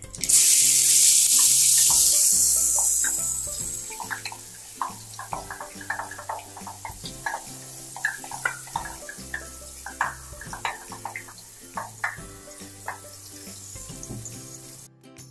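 Loud sizzling as coarsely ground tomato is tipped from a mixer jar into hot sesame oil with curry leaves. The hiss fades over about three seconds into scattered spitting and popping.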